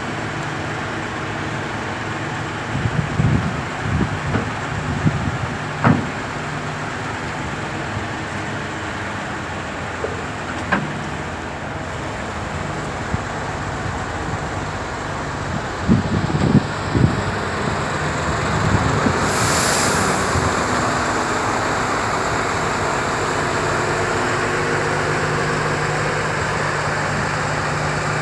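MAN TGS 35.360 truck's diesel engine running steadily, with several metallic knocks and clanks and a short burst of air hiss about two-thirds of the way through. The engine note comes up a little after that.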